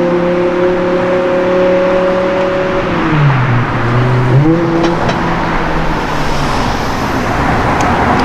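A car engine running at steady revs; about three seconds in the revs drop sharply, then pick up briefly around four and a half seconds in.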